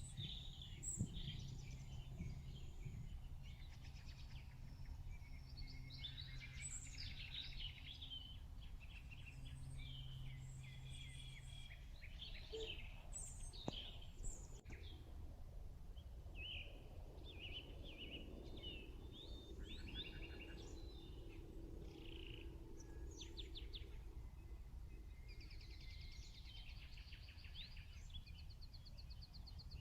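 Outdoor ambience: several birds chirping and calling on and off, with short trills, over a faint low rumble.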